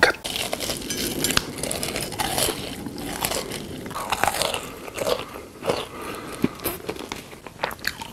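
A person biting and chewing something crunchy close to the microphone, with irregular sharp crunches.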